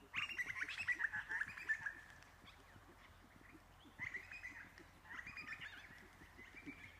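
A bird chattering in two loud bursts of rapid calls, the first right at the start lasting about two seconds and the second about four seconds in, with a shorter call near the end. Faint, irregular low thuds run underneath.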